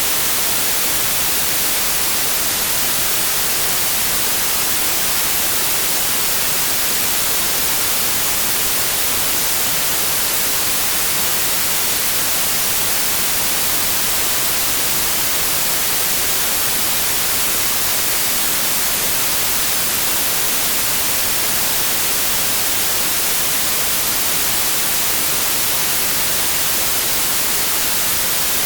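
Synthetic white noise: a steady, loud, even hiss across all pitches, unchanging throughout.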